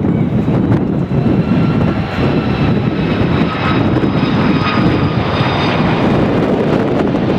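Airbus A330 jet airliner's engines during landing: a loud, steady rumble with a faint high whine above it.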